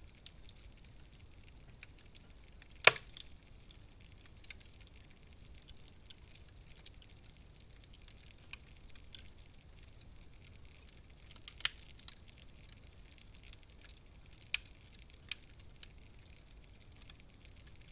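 Wood fire crackling in a fireplace: soft hiss with scattered sharp pops, the loudest about three seconds in and a few more in the second half.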